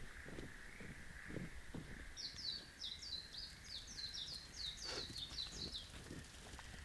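A small songbird singing a fast run of short, high, downward-sliding notes for a few seconds, starting about two seconds in. Under it is a faint steady high hiss and scattered soft low knocks.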